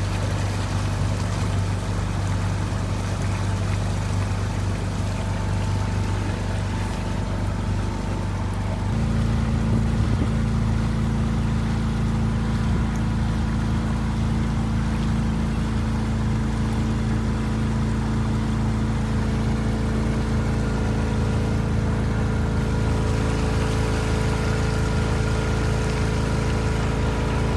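Motorboat engine running steadily at cruising speed. Its note steps up and gets a little louder about nine seconds in.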